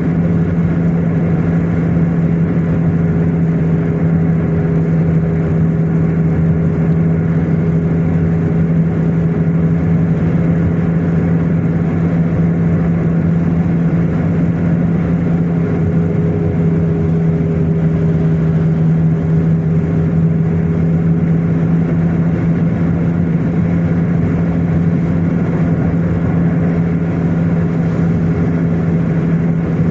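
Car driving at a steady speed: an even engine drone over road noise that does not rise or fall.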